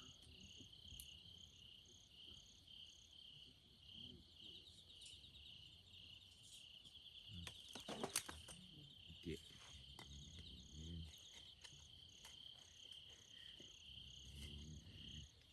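Crickets chirping steadily in a fast, even pulse of about three chirps a second. A single sharp click comes about eight seconds in, with faint rustling of handling.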